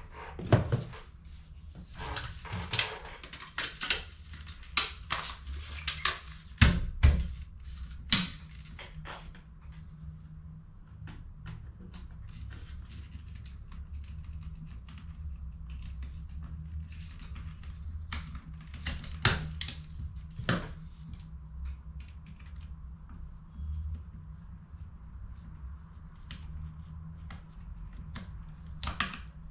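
HP CE285A toner cartridges being handled and worked on, their plastic parts clicking and knocking. The clicks come thick and fast in the first several seconds, with the loudest knock around seven seconds in, then grow sparser, over a steady low hum.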